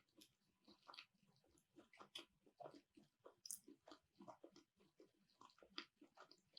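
Faint close-up chewing of food: irregular wet mouth clicks and smacks, a few a second.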